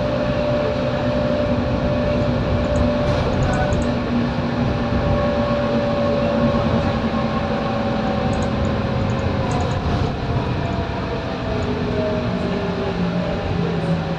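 Scania K230UB single-deck bus driving, its engine and drivetrain running steadily with a whine whose pitch sags slightly about eight to ten seconds in, then new, higher-pitched tones rise near the end.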